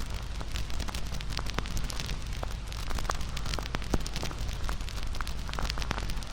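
Campfire crackling: wood burning with many sharp, irregular pops and snaps over a steady low rumble.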